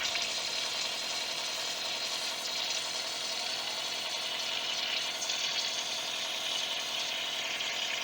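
Steady hiss with a light machine hum from a Hypertherm XP45 air-plasma torch cutting 1/2-inch steel plate on a CNC plasma table.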